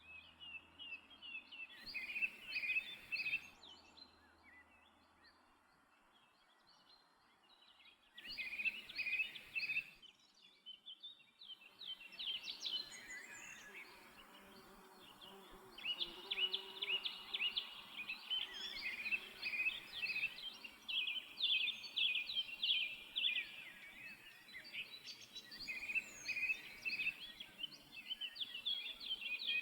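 A songbird singing in short, quick chirping phrases, a few seconds apart at first, then almost without pause in the second half.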